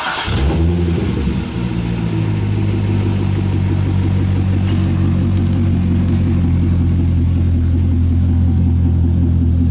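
Chevrolet Corvette 6.2-litre LS3 V8 catching and flaring at the start, then settling within a couple of seconds into a steady, deep idle.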